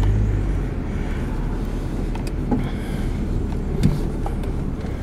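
Car driving slowly, its engine and tyre rumble heard from inside the cabin with the side window open. Two short knocks, the louder one about four seconds in.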